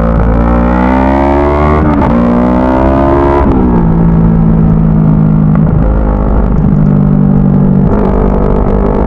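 CFMoto 400NK motorcycle's parallel-twin engine accelerating through the gears: the pitch climbs and drops at upshifts about two and three and a half seconds in, then holds fairly steady at cruise.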